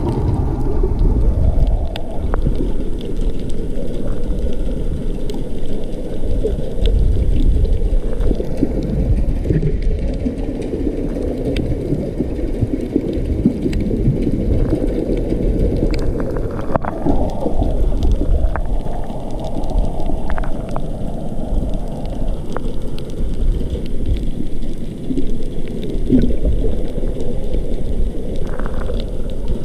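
Underwater sound picked up by a camera submerged on a coral reef: a steady muffled rumble and gurgle of moving water, with faint scattered clicks.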